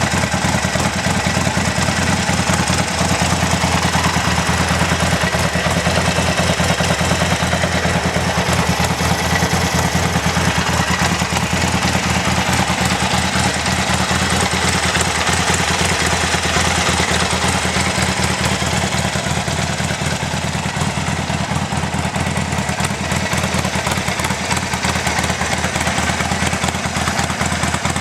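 Harley-Davidson 1200XL Sportster's V-twin idling steadily through Chrome Works aftermarket mufflers, an even pulse of exhaust beats with no revving.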